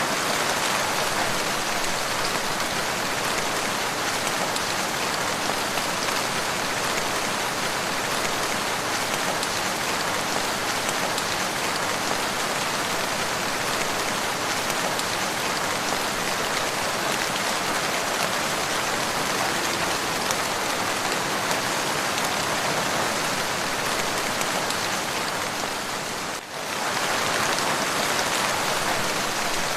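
Steady rain falling on a surface: a dense, even hiss of countless drops. It dips briefly in level once, near the end.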